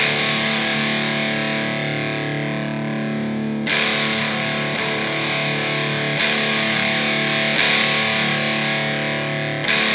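Electric guitar played through the Fender Santa Ana overdrive pedal: distorted chords struck about five times and left to ring out between strums.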